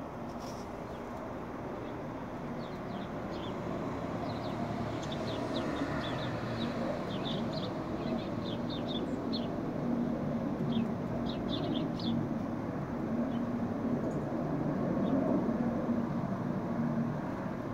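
Small songbirds giving rapid, short, high chirps, thick for several seconds and then only now and then, over a steady low rumble with a faint hum.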